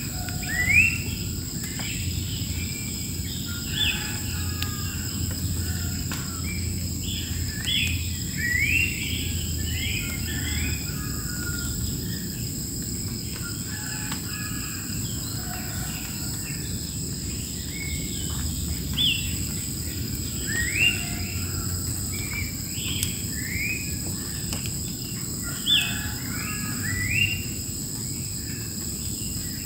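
Wild birds calling with many short chirps and whistles, scattered throughout, over a steady high-pitched insect drone and a low background rumble.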